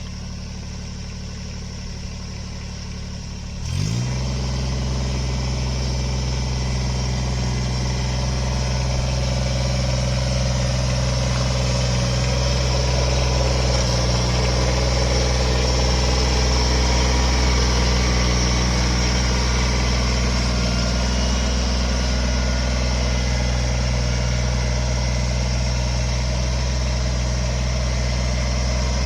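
An engine running steadily at low speed, then throttled up about four seconds in with a short rising pitch, and running steadily and louder at the higher speed.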